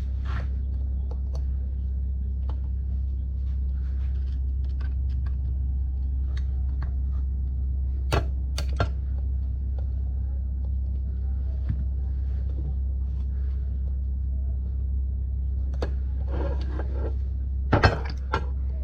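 A steady low hum with a few sharp knocks over it: two near the middle and a quick, louder cluster near the end.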